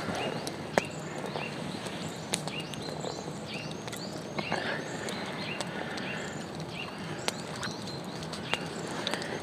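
Small birds chirping, short hooked calls repeating about twice a second, with scattered sharp clicks and a steady outdoor hiss.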